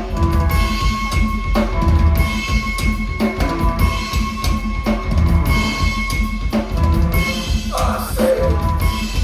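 Live band playing loud, heard from the crowd: a drum kit hammering out a steady driving beat with kick and snare, under sustained high tones.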